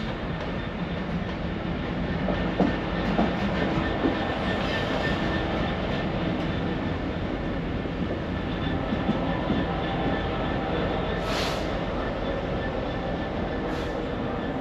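A train running through the station, its wheels clattering over the rails with a steady rumble. There are a few knocks early in the pass and two short hisses near the end.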